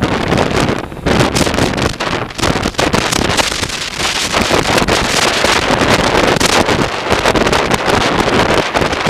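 Loud, gusty wind buffeting the microphone of a moving motorcycle, with road noise underneath.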